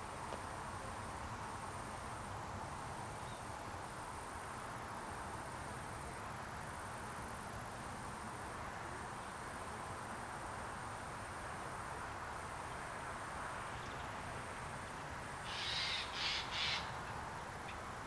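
Steady open-air background hiss with a faint, high, pulsing tone, broken near the end by a bird's three harsh calls in quick succession.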